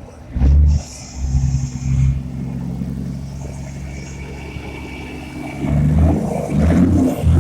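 A vehicle engine running, revved in short blips about half a second in and again several times near the end.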